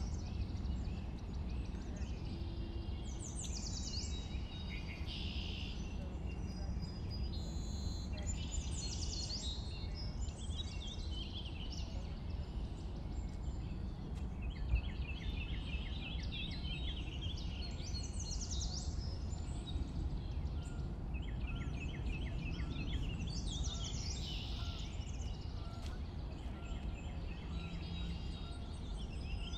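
Many birds chirping and trilling over a steady low rumble, with one brief knock about halfway through.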